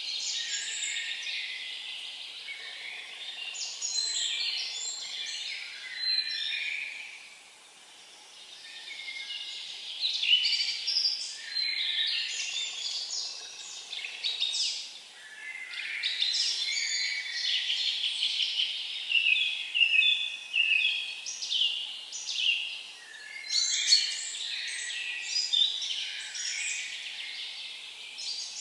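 Songbirds singing in forest, a dense run of high chirps and trills that pauses briefly about a quarter of the way through.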